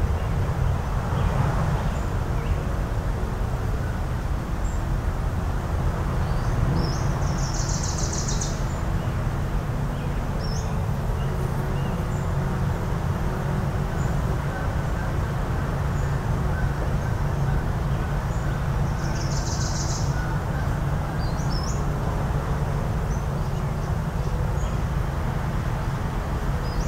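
Coastal ambience: a steady low rumble of surf and distant motors, with small bird chirps scattered through it. Two buzzy, high bird calls about a second long stand out, roughly twelve seconds apart.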